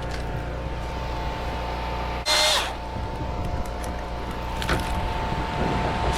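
Chainsaw running steadily with a constant engine note, with a brief loud burst of noise a little over two seconds in.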